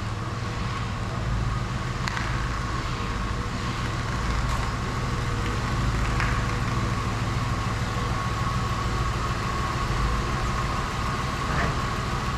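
A motor vehicle's engine idling steadily: an even low hum with a faint steady higher tone above it and a few light clicks.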